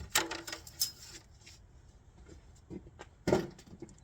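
Handling noise: a quick run of clicks and rattles in the first second, then a few separate knocks about three seconds in.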